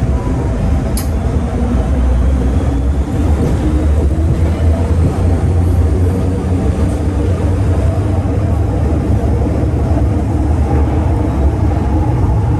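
MTR M-Train electric multiple unit running between stations, heard from inside the car: a steady low rumble with faint motor tones above it, and a single sharp click about a second in.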